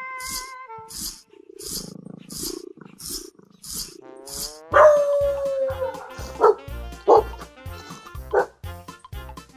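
Background music with a steady beat. About halfway through, a dog barks over it: a longer call that falls in pitch, then several short barks.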